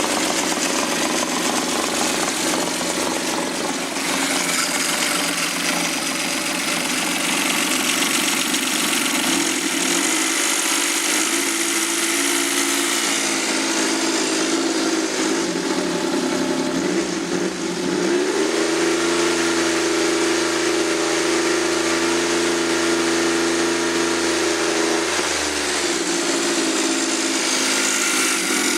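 Suzuki K6A 660 cc turbocharged three-cylinder engine from a JB23W Jimny running. It idles, then is revved up about ten seconds in and held at a steady raised speed for several seconds before dropping back to idle near the end.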